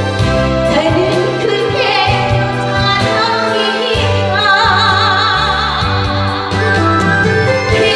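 A woman singing a Korean trot song with wide vibrato over a karaoke backing track with a steady bass line, through a PA system.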